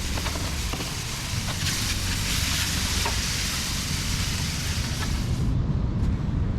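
Strong wind buffeting the microphone, over a steady rushing hiss. The hiss's top end drops away about five and a half seconds in.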